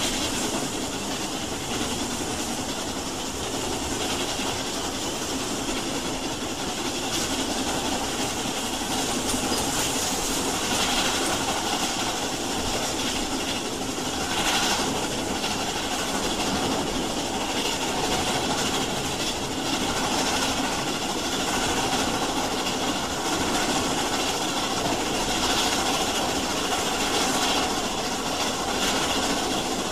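Train running on the rails: a steady, continuous rush of noise with no clear beat.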